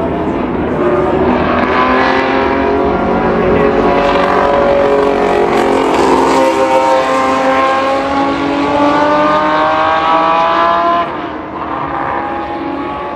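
Historic racing car engines at full throttle, more than one car at once, their notes overlapping. The pitch climbs steadily as they accelerate, then the sound drops and falls away about eleven seconds in.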